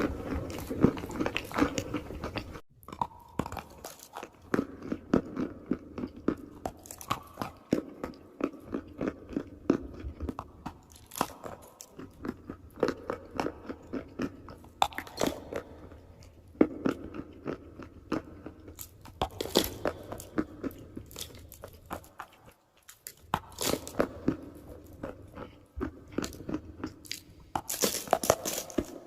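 Close-miked biting and chewing of crunchy chalk and clay: a dense run of sharp crunches with louder bites at the start, midway and near the end.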